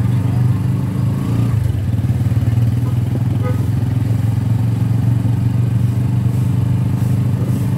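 Motorcycle engine running steadily with a low, even drone, easing briefly about a second and a half in before carrying on.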